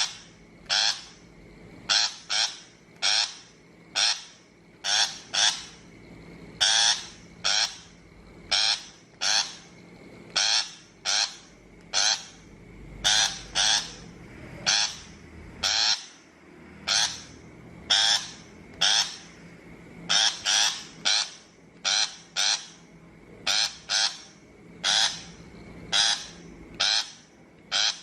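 Shrike giving short, harsh, grating calls, one or two a second and often in quick pairs: a recorded lure call for a bird-trap speaker.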